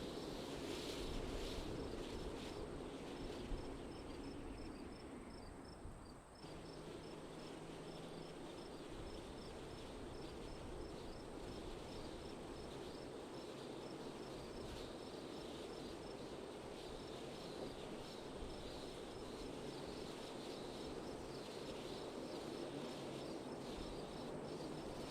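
Steady wind blowing, with an insect chirping in a regular series of short high pulses behind it. The sound dips briefly about six seconds in, then carries on.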